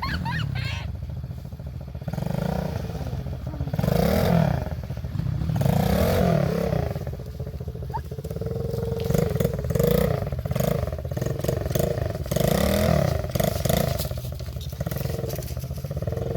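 Pit bike engine revving up and down over and over, its pitch rising and falling in swells every second or two as it is ridden.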